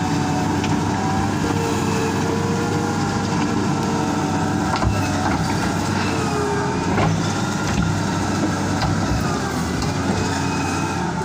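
Kawasaki wheel loader's diesel engine running steadily, its pitch wavering a little, with occasional short knocks.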